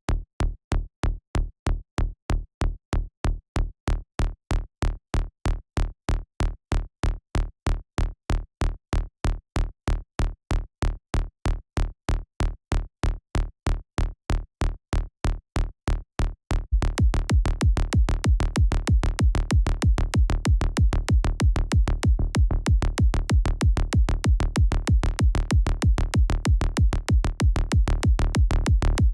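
Electronic kick drum from the Kick 2 synth playing a steady four-on-the-floor loop, about two hits a second. Just past halfway a Sylenth synth bass joins, filling the low end between the kicks.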